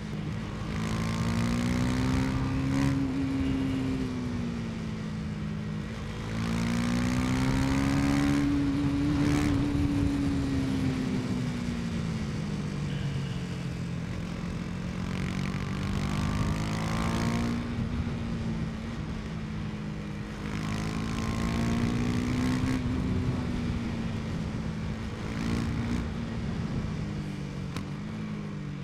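KTM 250 Duke's single-cylinder engine under way, its pitch rising with the throttle and falling back several times. A steady rush of wind runs under it.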